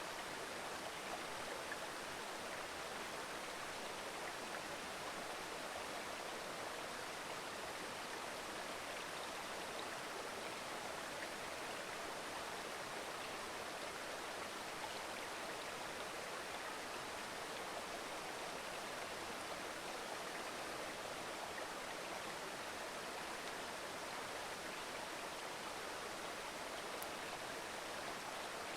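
Mountain river babbling over rocks, a steady rush of flowing water.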